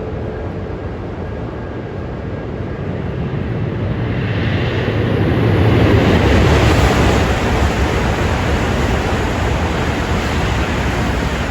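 Shinkansen train running past the platform: a rushing roar of air and running noise that builds over several seconds and stays loud through the second half.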